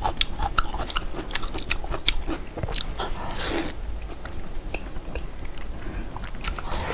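Close-up chewing and biting of crunchy food, probably vinegar-pickled Laba garlic cloves, with a fast run of crisp crunches over the first few seconds that then slows to sparser ones. A short rush of breath comes about halfway through.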